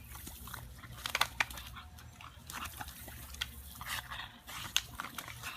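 Scattered sharp clicks and soft knocks over a steady low hum.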